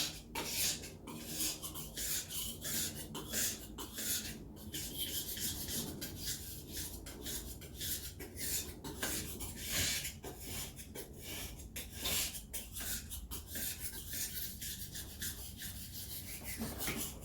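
A knife blade pushed forward again and again across the wet 6000-grit face of a whetstone: a gritty scraping in quick repeated strokes.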